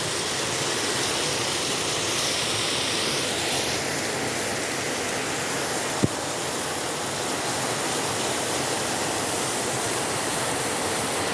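Heavy rain pouring down steadily, with one sharp click about six seconds in.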